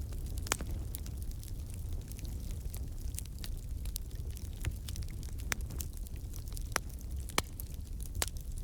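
Wood fire burning in a fireplace: a steady low rumble of flames with irregular sharp crackles and pops from the logs, a few louder pops standing out.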